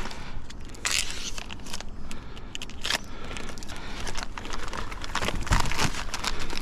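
Irregular clicks, knocks and crinkling from parts and packaging being handled and worked by hand.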